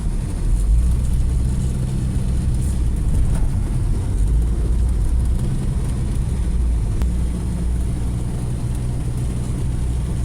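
Ford Escape driving, heard from inside the cabin: a steady low engine and road drone with no breaks. No grinding comes from the transmission, which has been repaired for a grinding sound.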